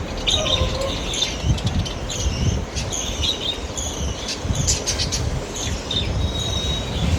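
A flock of caged budgerigars chattering: many short high chirps overlapping all the way through, over a steady low rumble.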